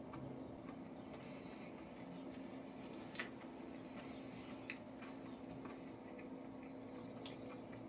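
Faint chewing of cold, crispy fried chicken with dentures: a few soft crunches and clicks over a steady low hum.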